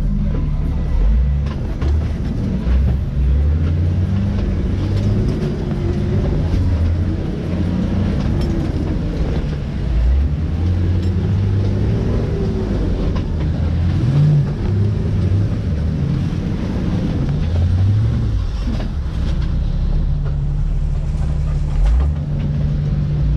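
Jeep engine running on a rock-crawling climb, its revs rising and falling over and over above a steady low drone.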